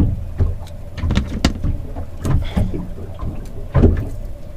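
Irregular knocks and clatter of kitchen items being handled while cooking, the sharpest about one and a half seconds in and near four seconds, over a steady low hum.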